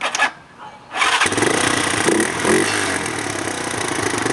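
United Motors 200 dual-sport motorcycle's single-cylinder four-stroke engine being started on the electric starter: short bursts of the starter at first, then the engine catches about a second in and keeps running at a steady idle.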